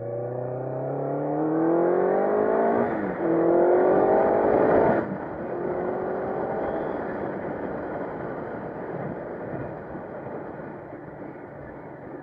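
1984 Honda CB700SC Nighthawk S inline-four, its top end freshly rebuilt and still being broken in, accelerating hard through a gear. It shifts up about three seconds in and pulls again, then the throttle closes sharply about five seconds in, leaving wind and road noise as the bike coasts.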